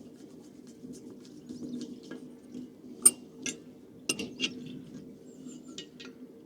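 Metal clinks and taps as a diesel heater's burn chamber is fitted back into the heater body, a handful of sharp knocks from about three seconds in, over a steady low hum.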